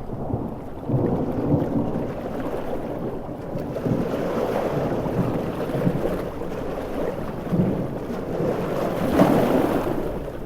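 Coastal storm: low rolling thunder rumbling over heavy rain and the wash of big waves, swelling to its loudest about nine seconds in.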